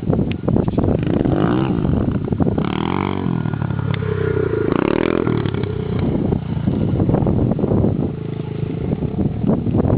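An engine revving, its pitch rising and falling several times over a steady rumble, with scattered clatter.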